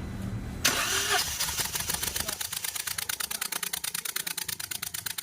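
Toyota Wego's engine running with a fast, even ticking, about ten clicks a second, after a sudden loud sound about a second in. The engine is misfiring on cylinders 2 and 3, as the scanner reported.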